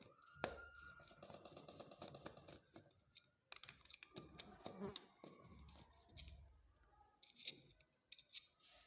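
Phillips screwdriver undoing the screws on a washing machine motor's carbon brush holder: faint metallic clicking and scraping in two stretches, then a few separate clicks near the end.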